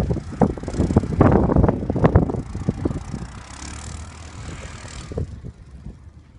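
Quadzilla RS8 quad bike riding off-road, its engine rumble mixed with a jumble of knocks and bumps. Loudest in the first two seconds, it fades and drops away about five seconds in.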